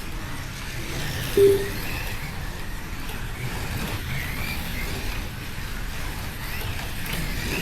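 Slot cars' small electric motors whining around the track, the pitch rising and falling as they speed up on the straights and slow for the corners, over the steady rumble of the cars on the track. A short electronic beep sounds about a second and a half in.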